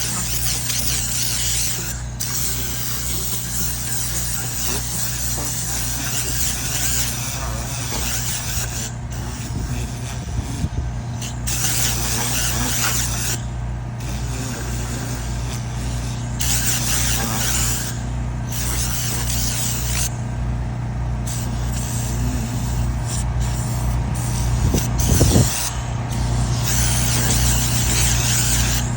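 Compressed-air blow gun hissing in on-and-off blasts of one to a few seconds, used to blow dust out of a vehicle interior, over a steady motor hum.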